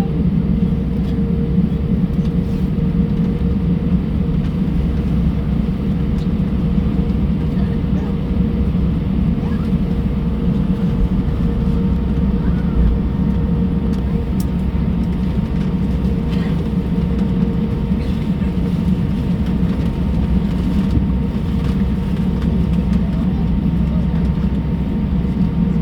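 Airbus A320 cabin noise on the ground before takeoff: a steady low rumble from the running engines and air system, with a steady hum tone and a faint higher tone that comes in about halfway through.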